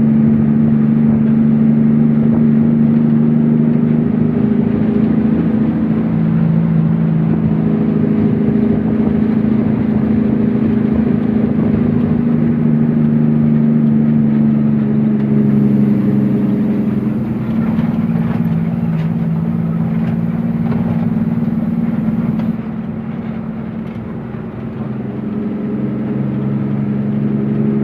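Truck engine running steadily on the move. Its pitch falls a little past the middle, then it goes quieter for a couple of seconds before building up again near the end.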